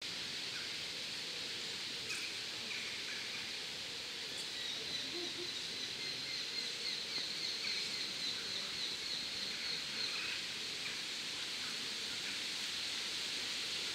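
Birds calling over a steady outdoor hiss: a rapid run of short, high repeated notes from about four to ten seconds in, with scattered single chirps before and after.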